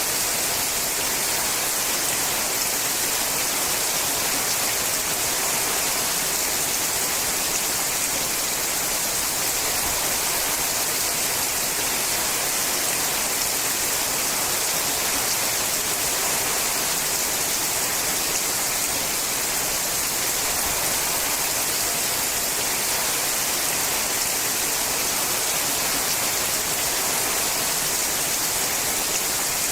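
Steady rain falling on a sheet-metal roof: an even, unbroken hiss.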